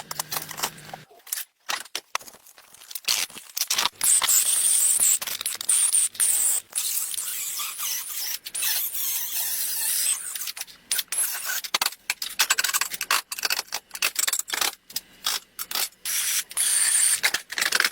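A rapidly cut string of scraping and hissing workshop noises, mostly high-pitched, with frequent sudden breaks.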